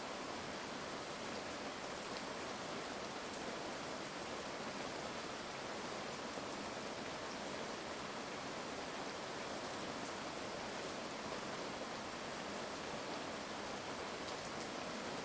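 Heavy rain falling steadily, a dense even hiss with faint scattered drop ticks; no thunder in this stretch.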